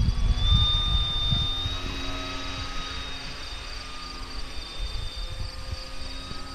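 An electric RC P-40 Warhawk warbird's motor and propeller whining in flight, a steady whine with slight rises and dips in pitch as it flies by. Wind buffets the microphone for the first second or so.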